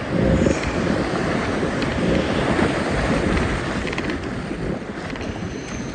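Wind buffeting the microphone over the rush of river water through a rapid, a loud, steady roar.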